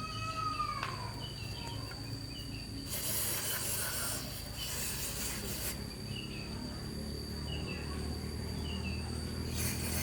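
Outdoor ambience: a steady high insect drone with scattered short bird chirps and a falling whistled call in the first second. About three seconds in come two bursts of hiss, each lasting over a second.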